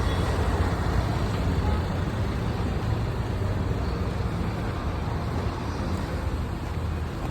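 Steady, even road-vehicle rumble with a strong low drone and a haze of engine and road noise, no distinct events.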